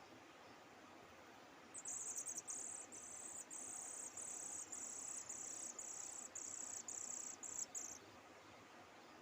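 An insect, cricket-like, trilling in a high, steady buzz that starts about two seconds in and stops about eight seconds in, with brief breaks, over faint outdoor hiss.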